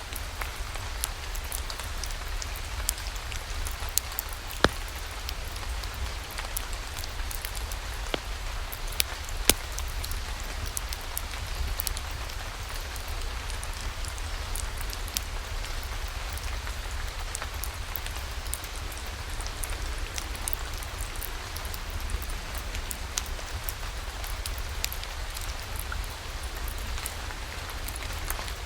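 Steady rain falling, with a constant low rumble under it and scattered sharp ticks and pops throughout; a few louder pops come about 4 to 5 seconds and 9 to 10 seconds in.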